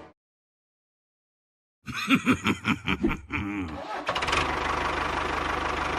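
Silent for about two seconds, then an engine starting: a choppy, stuttering cranking sound that catches about two seconds later and settles into a steady, even-running engine.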